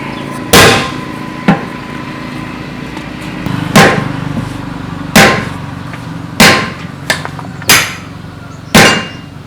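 Hammer blows: six heavy strikes roughly one to one and a half seconds apart, with a couple of lighter taps between them, over a steady low hum.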